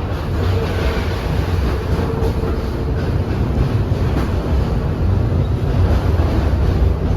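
R142A subway car running between stations, heard from inside the car: a steady low rumble of wheels and running gear on the rails.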